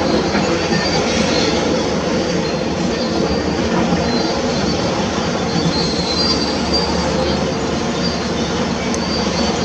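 Heavy construction machinery at work, most likely an excavator: a loud, steady mechanical din with high metallic squealing over it.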